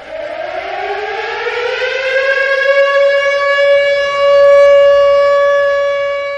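Fire truck siren winding up, its pitch rising over about two seconds, then holding a steady wail before fading out.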